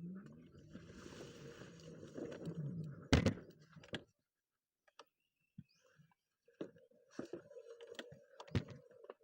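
Electric scooter's motor whining as it speeds up, with a hard knock about three seconds in. After a short pause it runs with a steady whine while repeated knocks and clicks come from the scooter bumping over rough ground.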